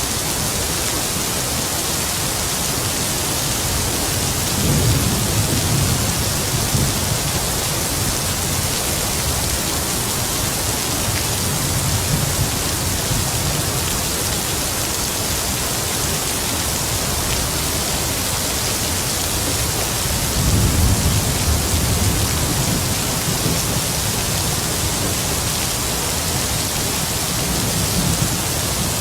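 Heavy rain falling steadily, with low rumbles of distant thunder swelling about five seconds in and again, longer, about twenty seconds in.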